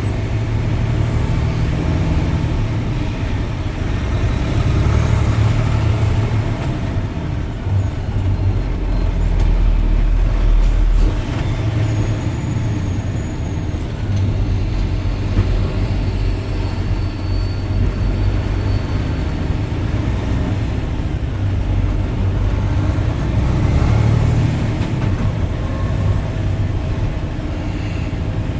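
Steady low rumble of a car moving in highway traffic, heard from inside the cabin: tyre and engine noise, with heavy trucks in the surrounding traffic.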